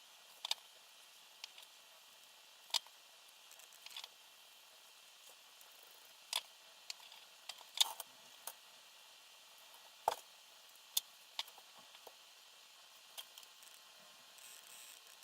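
Light clicks and taps at irregular intervals, about a dozen in all, from small parts and tools being handled during quadcopter frame assembly, over a faint hiss. The sharpest tap comes about ten seconds in.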